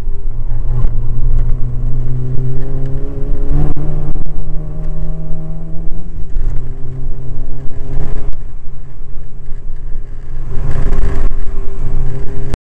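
A 1992 VW Jetta 16V's 16-valve four-cylinder engine runs hard on track. Its note climbs under acceleration and drops back a few times, near four, six and eight seconds in, as at gear changes, over heavy wind rumble on the outside-mounted microphone. It cuts off abruptly at the end.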